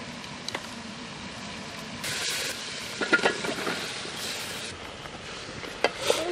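Sliced water taro tipped into hot oil in an aluminium pot, setting off a sudden sizzle about two seconds in that tapers off, with clicks and a few sharp knocks of a wooden spoon against the pot as it is stirred near the end.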